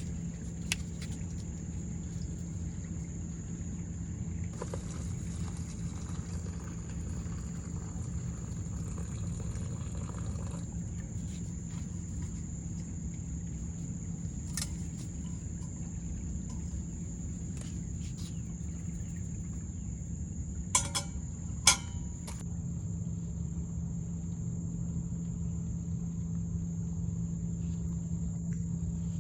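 Steady high-pitched insect chorus, typical of summer crickets, over a low steady hum, with a few sharp clicks about two-thirds of the way through.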